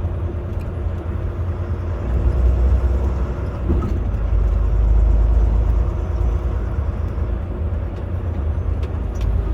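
Semi truck's diesel engine and road rumble heard inside the cab, a steady low drone that swells a little about halfway through as the truck moves in slow traffic.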